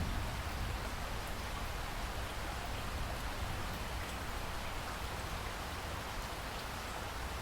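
Steady rain falling: an even hiss scattered with small drop ticks, over a low rumble.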